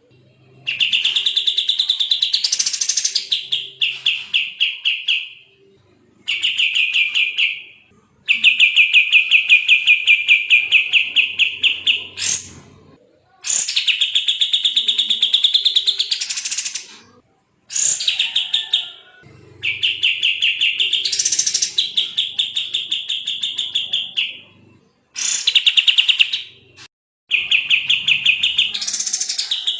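Kapas tembak songbird singing a fast, dense trill, with phrases of two to four seconds of rapid repeated notes separated by short pauses. Some phrases swoop up in pitch.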